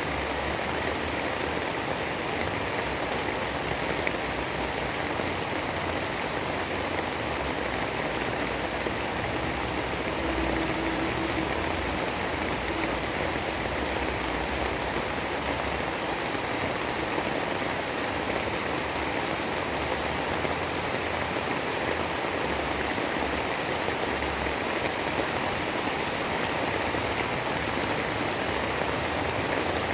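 Steady, even rain noise, a continuous hiss of falling rain with no distinct drops or thunder standing out.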